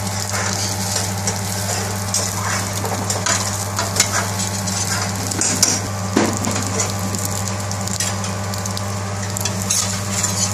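Egg paratha sizzling in oil on a flat griddle, with a metal spatula scraping and tapping against the pan several times as it presses and lifts the bread. A steady low hum runs underneath.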